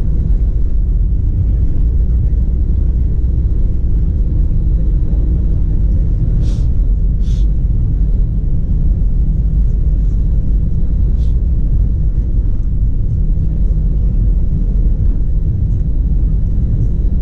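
Steady low rumble of an airliner cabin, engines and airflow heard from inside, with a few brief faint clicks about a third of the way in and again a little later.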